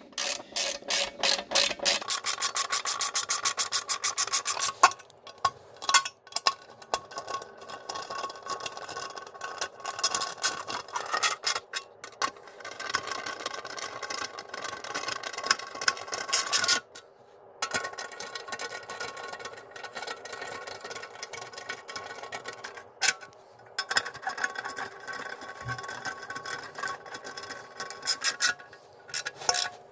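Ratchet wrench with an E10 E-Torx socket driving small bolts into an engine cover. It gives rapid, even clicking for the first few seconds, then shorter spells of clicking and metal scraping as the bolts are run down snug.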